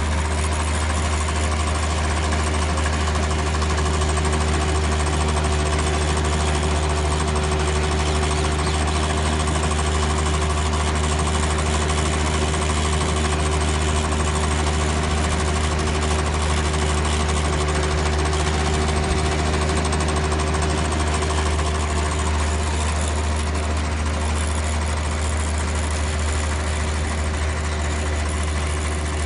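Small petrol engine of a student-built fuel-economy car running at a steady, unchanging speed as the car drives along.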